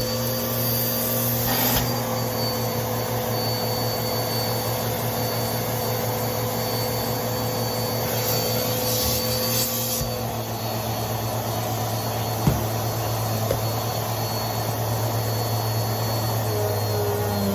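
Vacuum cleaner running steadily with a scratchy crackle, typical of crunchy debris being sucked up; its motor note dips slightly about ten seconds in, and there is a sharp click about twelve seconds in.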